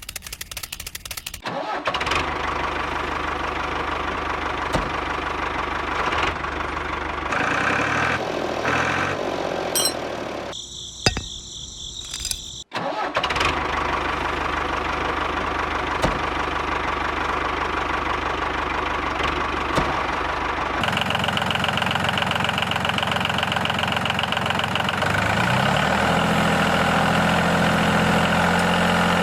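Engine running steadily, cut off abruptly twice in the middle and starting again. It changes to a different, buzzier running note about two-thirds of the way through.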